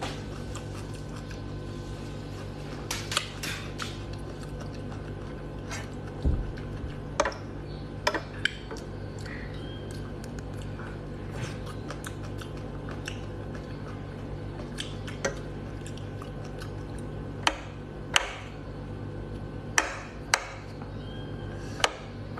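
Close-up chewing and mouth sounds of someone eating boiled sea anemone, with scattered sharp clicks and taps from a metal fork and plate, over a steady low hum.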